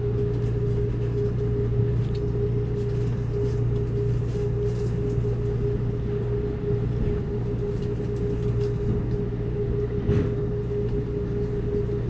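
Amtrak Cascades Talgo passenger train running steadily across a steel truss bridge: a continuous drone with a constant mid-pitched tone and a low hum, and faint scattered ticks and clicks from the wheels and cars, one a little louder about ten seconds in.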